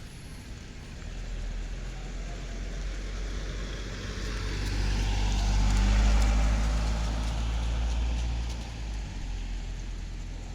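A motor vehicle driving past close by: engine rumble and tyre noise build up, are loudest about halfway through, then fade away.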